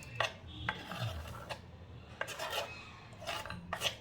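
Irregular hand-worked scraping and rubbing strokes, with sharp clicks between them.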